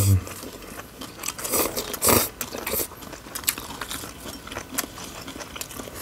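Close-up chewing and crunching of a crisp chicken-feet and green-mango salad: many small sharp crunches and wet chewing sounds, with a few louder bursts about two seconds in.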